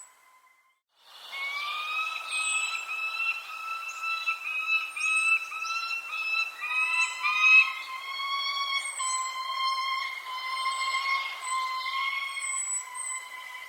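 Birds calling: a continuous whistled tone in repeated held notes, with short high chirps scattered over it. It starts suddenly after a second of silence, about a second in.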